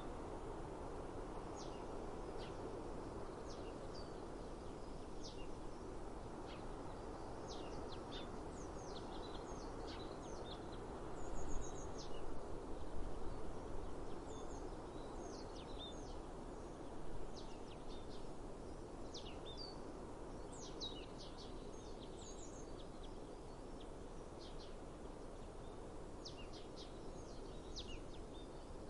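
Small birds chirping in many short, quick, falling notes throughout, over a steady outdoor background hiss. A louder low rumble comes briefly about eleven to fourteen seconds in.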